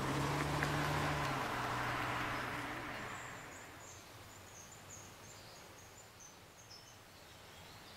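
Faint outdoor ambience: a rushing noise with a steady low hum fades away over the first three seconds or so, then a small bird sings a string of short, high chirps.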